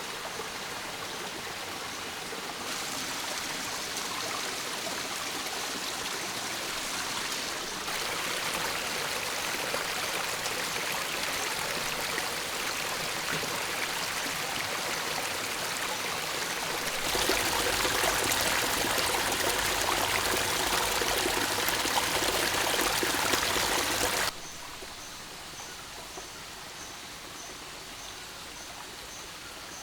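Rain and running water, a steady rushing hiss that changes level abruptly several times and is loudest for about seven seconds past the middle. Near the end it drops lower and a faint high chirp repeats about twice a second.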